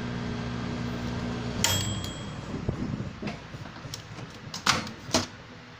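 Microwave oven running with a steady electrical hum, which cuts off with a click and a short beep about a second and a half in, followed by a few clicks and knocks. The oven runs but, by the technician's test, does not heat.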